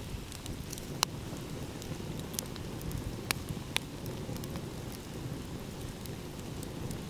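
Wood fire crackling, with a handful of sharp pops, the loudest about a second in, over a steady low rumble of ocean waves.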